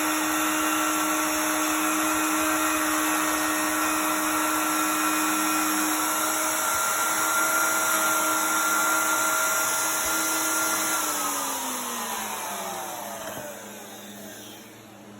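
Bosch plunge router with a 1/2-inch bit running at a steady high whine while routing a circle in the board, then switched off about eleven seconds in, its pitch falling as the motor spins down.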